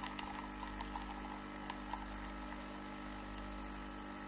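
Steady electrical hum made of several held tones over a low rumble, with a few faint ticks in the first couple of seconds.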